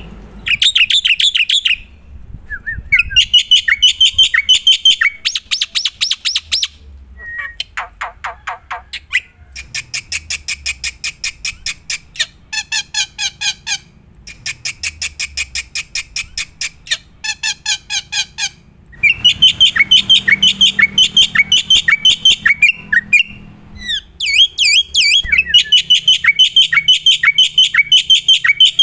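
Jalak putih (black-winged myna) singing loudly in bouts of rapid, harsh chattering notes, about ten a second. Each bout lasts a few seconds and is broken by brief pauses.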